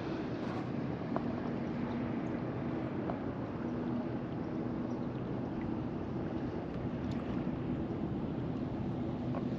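Steady low hum of a distant motor over a wash of water and wind noise, with a few faint clicks.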